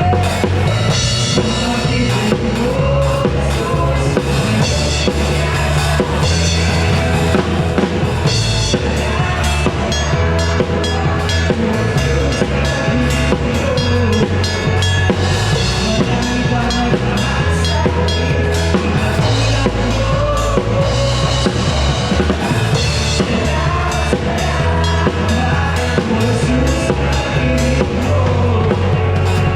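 Live band playing, with drum kit and bass guitar to the fore, in a steady instrumental passage.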